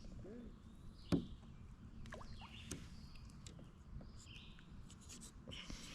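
Quiet outdoor ambience on the water: a single sharp knock about a second in, a few lighter clicks, and faint short chirps scattered through.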